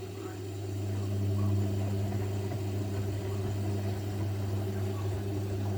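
Zanussi washing machine running its cotton 60° programme: a steady motor hum that gets louder about a second in and then holds level.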